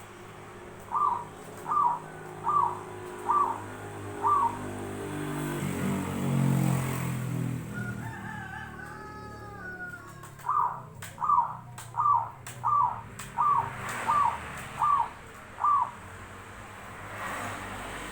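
Zebra dove (perkutut) cooing: a run of five short coos about two-thirds of a second apart, then after a pause a longer run of eight. A passing vehicle's rumble swells and fades between the two runs.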